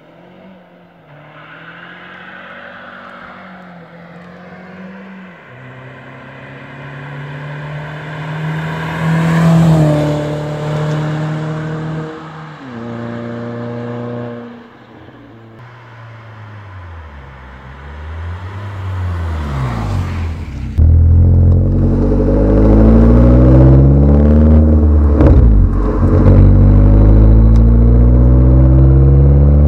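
Seat Ibiza 1.4 16V four-cylinder engine through a Sebring stainless steel sport exhaust, revving up and down repeatedly. Its note climbs to a peak about ten seconds in. About two-thirds of the way through the exhaust note becomes much louder and deeper, rising in pitch as the engine pulls.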